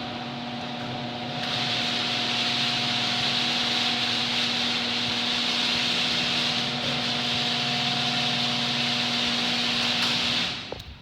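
Electric garage door opener running as it moves a door, a steady motor hum under a rushing hiss that grows louder about a second and a half in. The motor stops near the end, followed by a short knock as the door reaches its limit.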